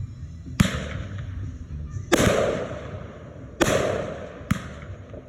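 Consumer firework mortar shells going off: four sharp bangs about a second and a half apart, the last one smaller, each trailing off into a fading crackle.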